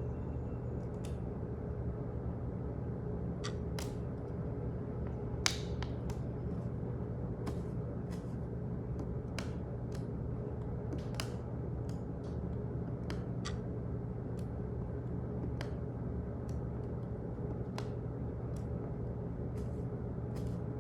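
Office ambience: a steady low hum with sharp clicks and ticks scattered unevenly, about one or two a second, one louder click about five seconds in.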